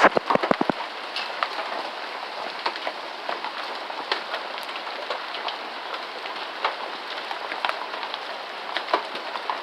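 Hailstorm: rain and hail falling on the garden in a dense, steady patter, with scattered sharp ticks of hailstones striking surfaces. A quick run of loud knocks sounds at the very start.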